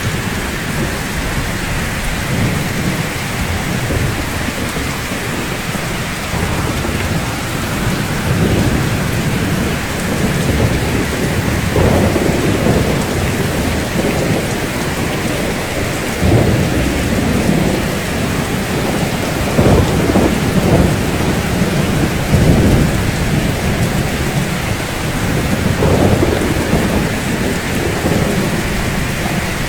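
Steady rain falling on rooftops, with low rumbles of thunder that swell and fade several times, more often in the second half.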